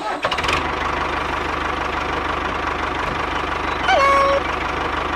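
Small engine of a mini tractor or bulldozer running steadily with a fast, even knocking beat. About four seconds in, a short high-pitched voice-like call falls and then holds briefly.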